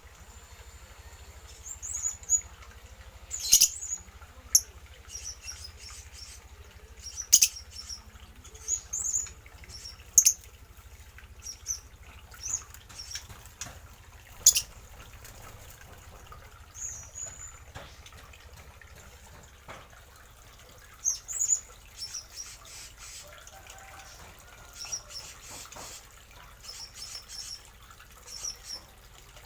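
Small aviary birds giving short, high chirps every second or two, with scattered wing flaps and clicks.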